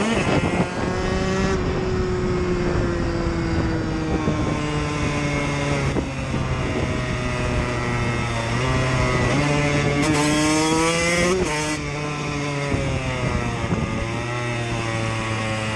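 Motorcycle engine running under way, its pitch sliding down as it eases off and stepping back up on the throttle several times as it is ridden.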